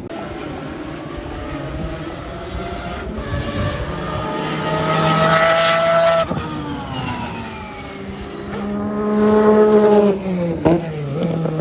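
Historic IMSA GTP prototype race car engine at full throttle on track. The pitch climbs to a loud peak, drops sharply about six seconds in as it shifts up, then climbs again to a second loud peak near ten seconds before falling away.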